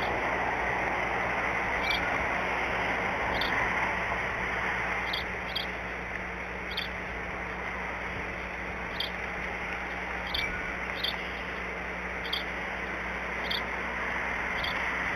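Steady hiss of falling rain, with short high-pitched chirps or ticks repeating irregularly, roughly once a second.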